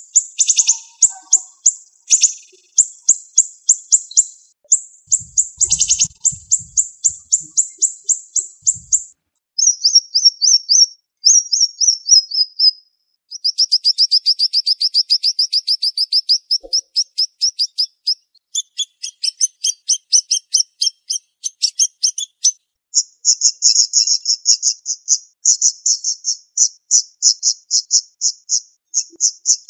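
Siri-siri bird singing in fast, tightly packed series of high-pitched chips and trills, phrase after phrase with only brief pauses.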